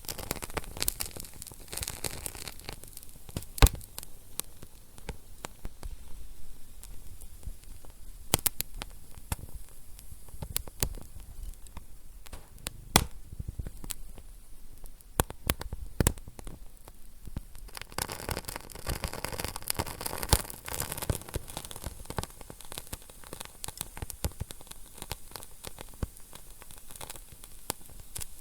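Wood fire burning in a fireplace, crackling and popping with irregular sharp snaps over a soft hiss. A denser run of crackling comes a little past halfway through.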